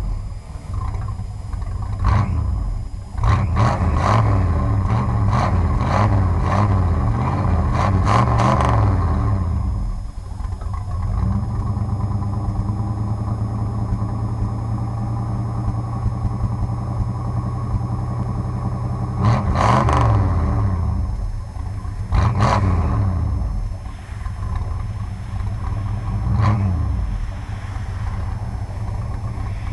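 1966 Plymouth VIP's 318 V8 engine idling and being revved by the throttle: a string of quick revs through the first nine seconds, a steady idle, then more revs about two-thirds of the way through and two single blips after that.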